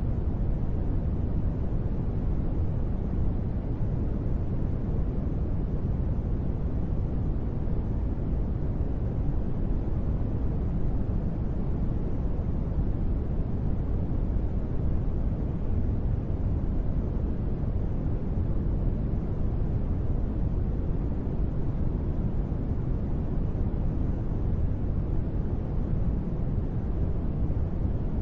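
Steady deep rushing noise from a sleep-sound track sold as gentle rain white noise, heaviest in the low range, with no separate drops or thunder.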